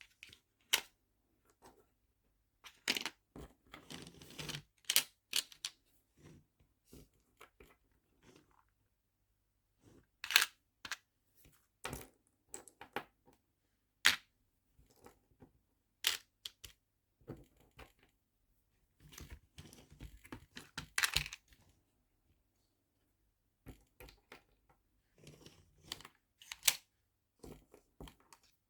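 Nail-art charms and small storage boxes being handled: irregular sharp clicks and taps as pieces are picked up, set down and dropped into compartments, with short stretches of rustling about three seconds in and again near twenty seconds.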